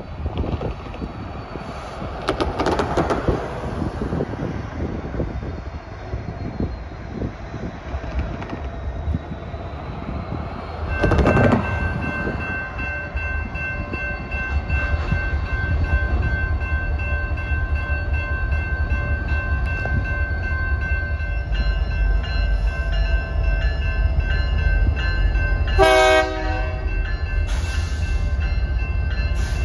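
EMD GP60-series diesel locomotives approaching, their engine rumble building over the second half, while the railroad crossing bells ring fast and steadily from about the middle on. One short horn blast sounds near the end.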